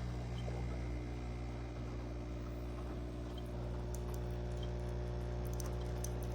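Café Affetto automatic espresso machine running steadily through a brew cycle as it makes a shot, a low mechanical hum, with faint crackly ticks near the end.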